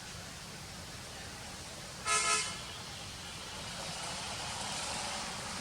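A short horn toot about two seconds in, over a steady background hiss.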